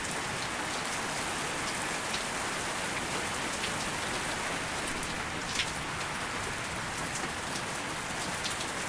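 Steady hiss of rain with scattered faint drop ticks, one slightly sharper tick about halfway through.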